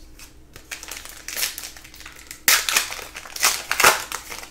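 Crinkling and rustling of plastic as trading cards are handled, in several short bursts.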